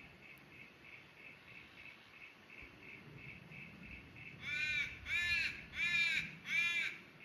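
A crow cawing four times in a quick, even series, about one caw every two-thirds of a second, beginning a little past halfway. A faint, fast pulsing high chirp sits in the background.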